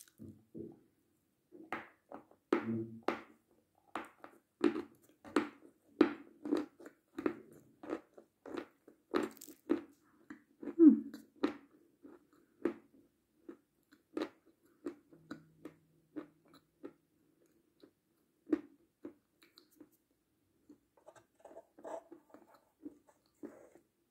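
Close-miked biting and crunchy chewing of a dry, dusty white chunk of Sumskoy chalk: a bite at the start, then steady crunches about two a second that thin out and grow sparse in the second half.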